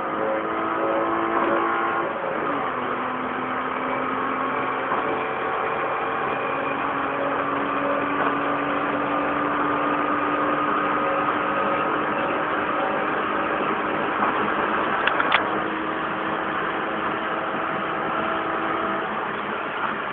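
Hyundai Tiburon's engine heard from inside the cabin at highway speed over road noise. Its pitch drops about two seconds in, then climbs slowly and steadily as the car accelerates, with a couple of light clicks near the end.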